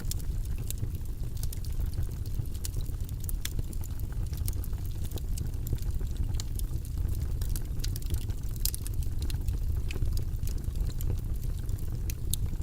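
Steady white-noise background track, heavy in the low end like a deep rumble, with scattered irregular light clicks over it.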